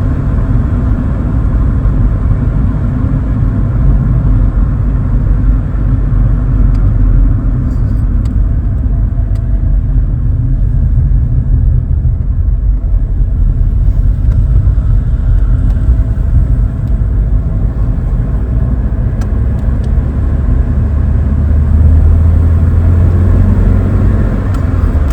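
Vauxhall Cavalier's 2.0-litre C20NE eight-valve engine and road noise heard from inside the cabin while driving: a steady low drone and rumble, with the engine note growing stronger for a few seconds near the end.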